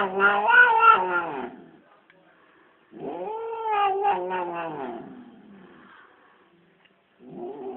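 Cat yowling in long, drawn-out calls: one trails off in the first second and a half, a second rises and falls in pitch about three seconds in, and a third begins near the end.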